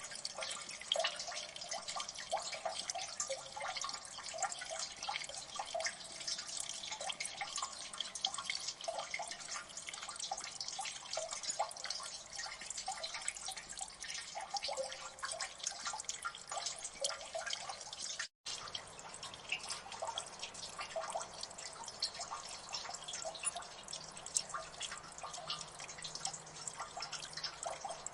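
Water dripping in a gully: many drops plink irregularly and overlap in a dense, steady patter. About eighteen seconds in, the sound cuts out for a split second, then carries on.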